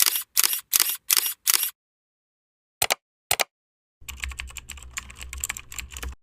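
A run of sharp clicks about three a second that stops after a second and a half, two single clicks, then from about four seconds a dense clatter of clicks over a low hum that cuts off suddenly, like edited clicking sound effects.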